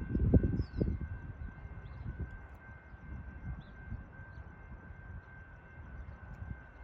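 Commuter train rolling past over switches: wheels knock over the rail joints a few times in the first second, then the low rumble fades as the train moves away, with a faint steady whine throughout.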